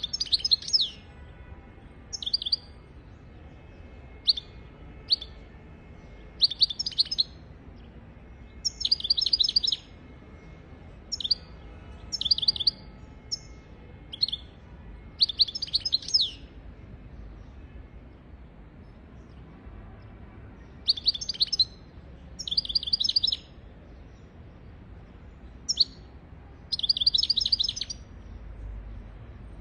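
European goldfinch singing: short bursts of fast twittering, trilled phrases, separated by pauses of a second or two.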